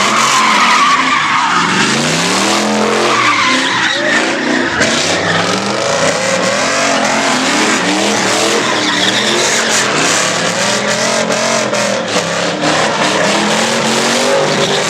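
Ford Mustang GT's V8 revving up and down hard while drifting, over the continuous squeal and scrub of sliding tyres, the squeal strongest in the first two seconds.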